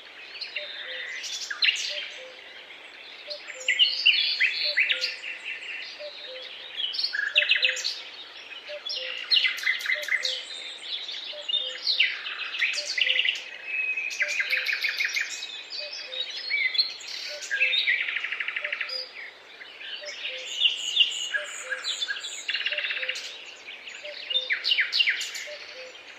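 Several songbirds singing together in a dawn chorus, with overlapping chirps, quick trills and whistled phrases. A faint, lower note repeats at an even pace underneath.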